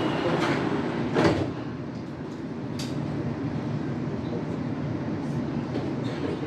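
Cabin noise of a CRRC Puzhen Type B metro train running: a steady rumble with a few sharp clicks, the loudest about a second in.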